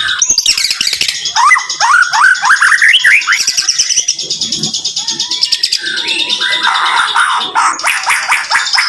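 White-rumped shama (murai batu) singing a dense, rapid-fire song. A quick series of rising slurred whistles runs between about one and three seconds in, followed by a long high trill laced with sharp clicking notes, all packed close together.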